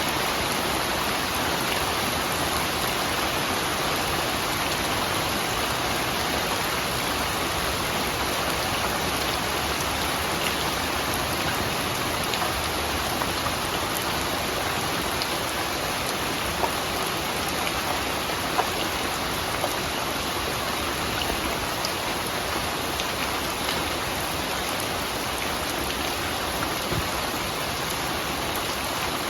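Steady rainfall, an even hiss with a few louder single drops standing out now and then.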